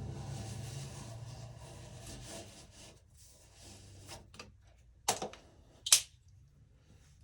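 Hand work on electrical cable and tools: rustling that fades out, a few small clicks, then two sharp clicks about a second apart near the end.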